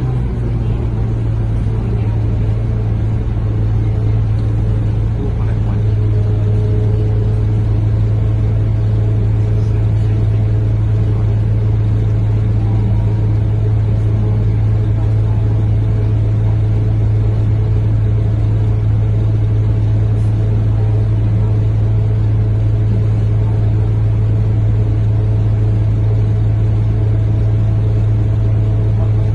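Scania K230UB bus's diesel engine running with a steady low drone, heard from inside the passenger cabin while the bus travels.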